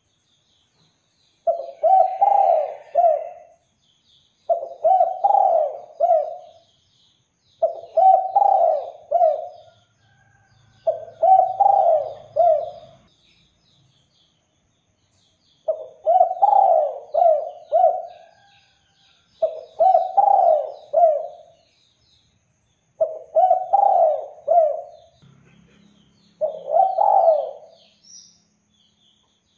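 Spotted dove (derkuku) cooing: eight phrases of several quick notes each, one phrase every three to four seconds. Faint twittering of small birds goes on behind.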